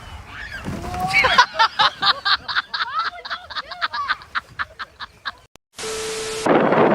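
A person laughing hard in rapid bursts, about six a second, for some four seconds. After a short gap comes a steady low hum with rushing noise.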